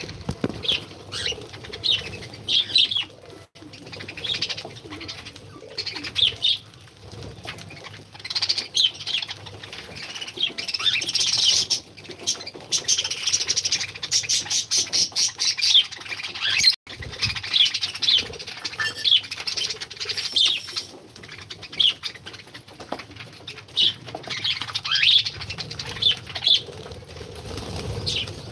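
A colony of pet cockatiels and lovebirds chirping and calling over one another, with a fast run of repeated chirps in the middle.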